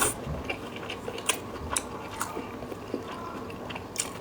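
Close-miked chewing of braised fatty pork, with irregular wet mouth clicks and smacks.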